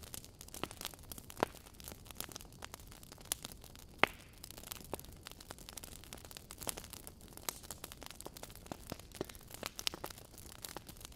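Logs burning in a fireplace, crackling with irregular sharp pops and snaps over a soft steady hiss, one louder pop about four seconds in.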